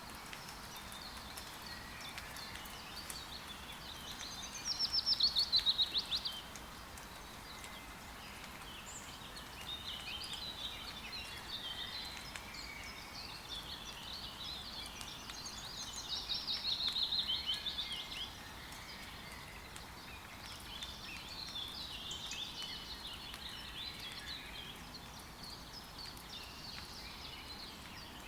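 Forest birds singing and calling, with two louder rapid trills of falling notes, one about five seconds in and one about sixteen seconds in. A faint steady hiss of rain runs underneath.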